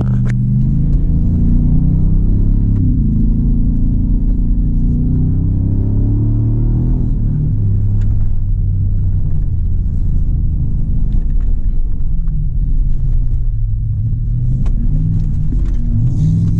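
Ford Raptor R's supercharged 5.2-litre V8 running under load, its pitch rising and falling with the throttle. A few sharp knocks come through as the truck bounces.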